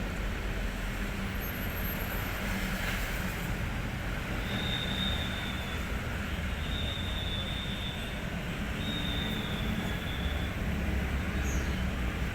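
Hino 500 truck's diesel engine running with a steady rumble. Three short high beeps sound one after another around the middle.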